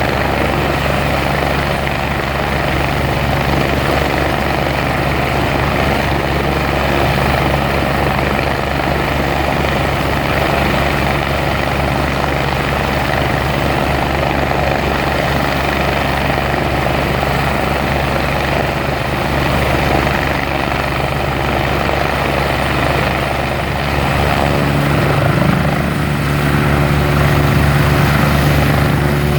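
Helicopter in flight: rotor and engine running as a loud, continuous drone with a steady low hum, growing a little louder with added tones near the end.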